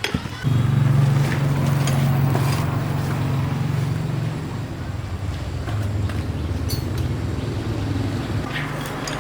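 An engine comes in suddenly and runs with a steady hum, settling to a lower pitch about halfway through.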